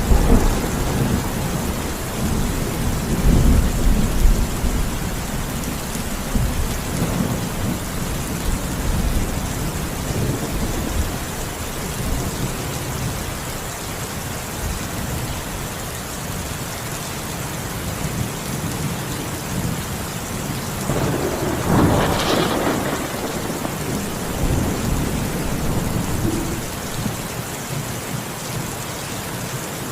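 Steady rain in a thunderstorm. A low thunder rumble dies away over the first few seconds, and a sharper thunderclap breaks about 21 seconds in, rumbling on for a few seconds after.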